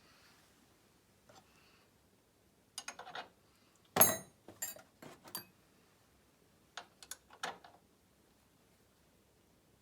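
Scattered metal clicks and clinks from parts and tools being handled, with one louder clank about four seconds in and a few more short knocks after it.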